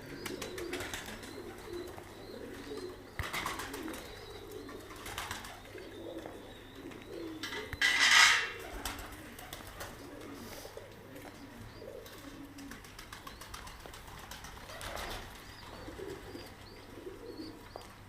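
Domestic pigeons cooing over and over in a loft. A few short rustling bursts break in, the loudest about eight seconds in.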